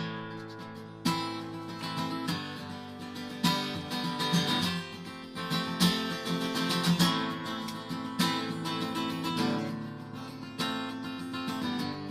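Acoustic guitar played alone, strummed chords ringing out in an instrumental passage between sung verses.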